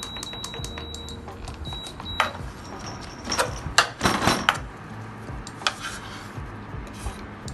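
Kitchen utensils being handled over a bowl or board while a marinade is made: scattered light clicks, then a run of louder scrapes and knocks about three to four and a half seconds in.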